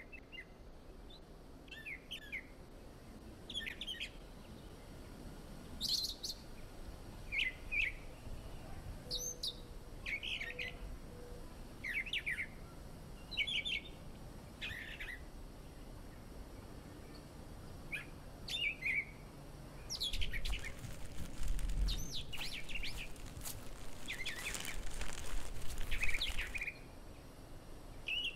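Small birds chirping in short calls, spaced out at first and coming thicker in the second half, with bursts of rustling noise among them.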